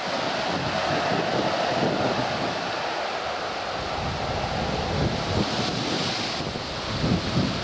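Boeing 737-800's CFM56 jet engines at takeoff power, a steady rushing roar, with wind buffeting the microphone.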